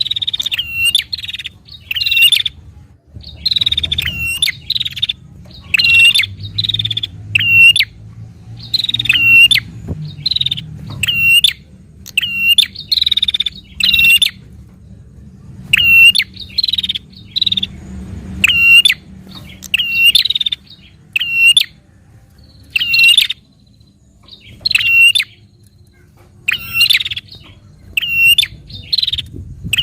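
Prinia (prenjak) giving its fast 'narung' challenge call: short, sharp, repeated chirps, each a raspy note and a clipped downward-hooked whistle, coming in quick clusters about once a second with brief pauses between runs.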